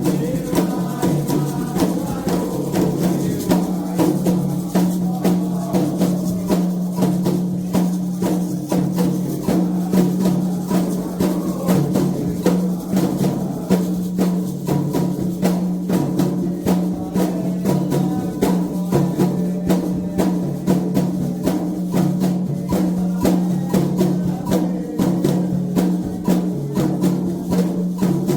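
Candomblé ritual drumming: atabaque hand drums beating a fast, steady rhythm with a sharp struck accompaniment, without a break.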